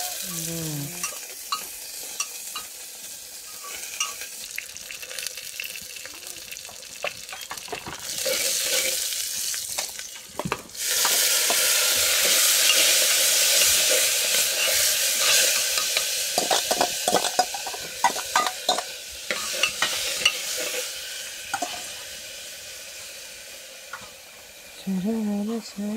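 Chopped fiddlehead shoots sizzling in an aluminium pot over a wood fire, with a metal spoon clicking and scraping against the pot as they are stirred. About eleven seconds in, the sizzle turns loud as a bowl of dry ingredients is tipped in, then it eases off again.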